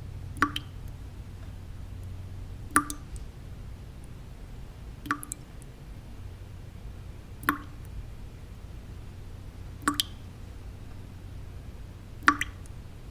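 Water drops falling one at a time at an even pace, about one every two and a half seconds, six in all, each a sharp plop with a short ring. Under them runs steady low white noise.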